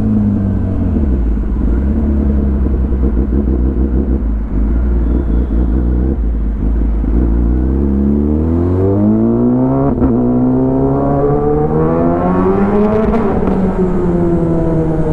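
Kawasaki ZX10R inline-four through an Arrow full exhaust system. The engine settles to low revs for several seconds, then pulls hard, pitch climbing for about five seconds. Near the end the revs drop sharply and settle lower.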